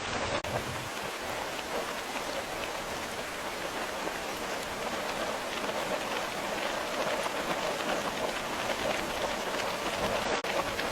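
Steady rain falling, a dense even hiss with scattered patter of individual drops. It dips very briefly near the start and again near the end.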